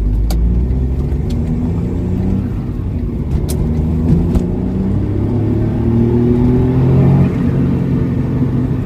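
Smart Roadster's small three-cylinder turbo engine pulling under load. Its pitch rises steadily, then drops sharply about seven seconds in, with a few sharp clicks earlier.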